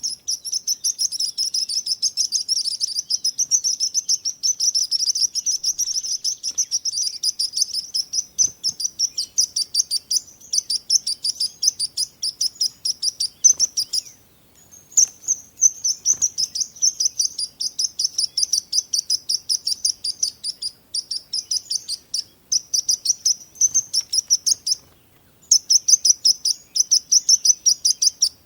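Small birds chirping in a rapid, continuous run of high-pitched chirps, several a second, breaking off briefly twice.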